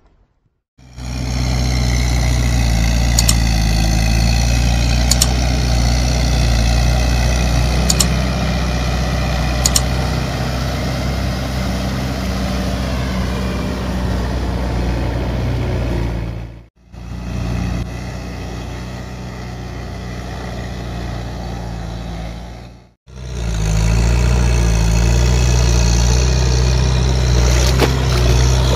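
Tractor engine running steadily under load, with a few sharp clicks in the first ten seconds. It cuts out briefly twice, and the stretch between the two drop-outs is quieter.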